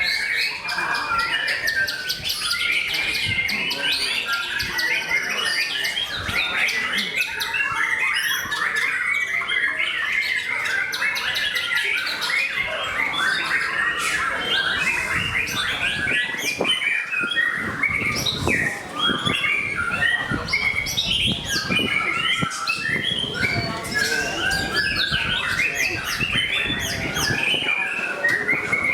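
White-rumped shama (murai batu) singing in full contest song: an unbroken run of rapid, varied chirps and whistles.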